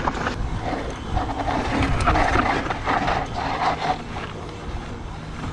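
Mountain bike riding down a dirt trail: wind rushing over the rider's microphone, with tyre noise and small rattles and knocks from the bike.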